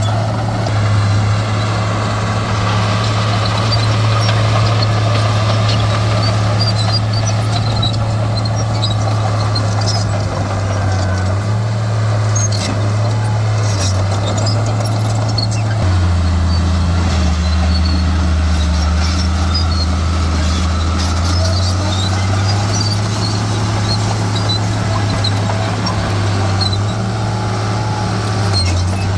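Heavy diesel engine of an earthmoving machine running steadily, its pitch dropping about halfway through and rising again a few seconds later as the engine speed changes, with scattered short high squeaks over it.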